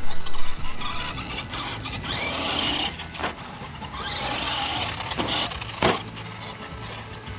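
FMS 1/10 Ford F-100 RC monster truck's electric motor whining up in pitch twice under throttle, with sharp knocks from the truck hitting the ground, the loudest near the end.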